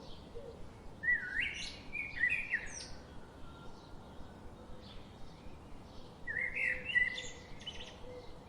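Songbirds singing in a forest: two loud warbling phrases, one about a second in and one about six seconds in, with fainter chirps from other birds between them.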